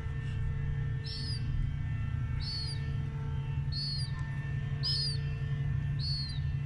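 A steady low hum with a short, high bird chirp repeating about once a second above it.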